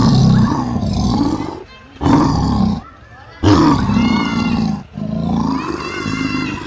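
A large wild animal calling loudly in four long calls with short breaks between them, pitch sliding up and down within each.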